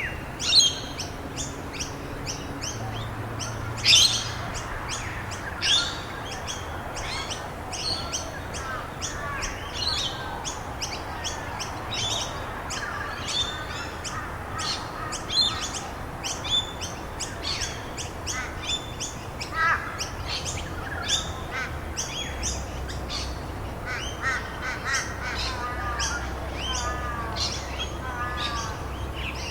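Several small songbirds chirping and tweeting continuously in quick, overlapping calls, with some lower warbling phrases near the end, over a steady background hiss.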